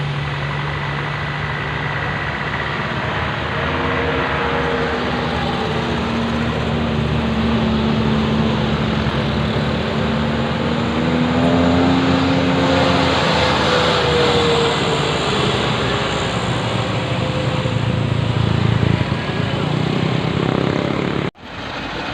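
Diesel engine of an Isuzu dump truck loaded with boulders, running steadily with its pitch climbing slowly and then easing back down. The sound briefly cuts out near the end.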